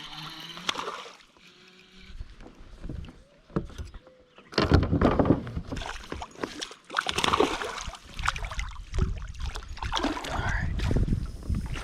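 Water sloshing and knocks around a fishing kayak: quiet at first, then irregular loud bursts from about four and a half seconds in.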